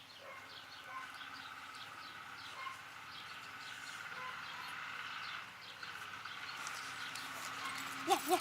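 Small birds chirping over and over, short falling calls, with a steady high buzz underneath. Near the end there are a few short, high whines.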